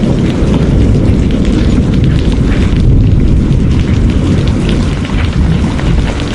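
Rain recording dominated by a loud, steady low rumble, with faint scattered drop patter above it.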